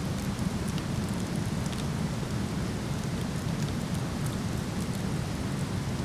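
Steady rush of a waterfall, heaviest in the low range, with faint scattered crackles from a wood fire burning.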